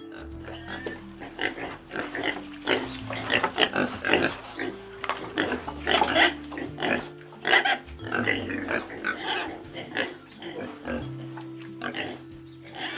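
Pigs grunting in many short calls in quick succession, over background music with long held notes.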